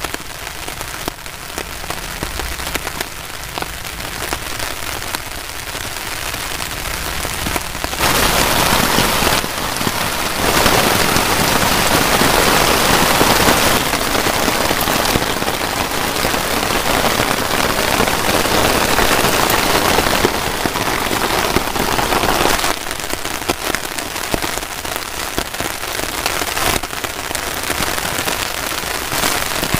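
Heavy rain falling on a tarp shelter, a steady patter of drops on the fabric. It grows louder about eight seconds in and eases back down a little after the midpoint.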